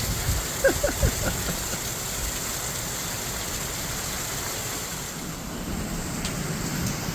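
Steady rush of heavy rain and hail coming down, with a few dull thumps in the first second or so.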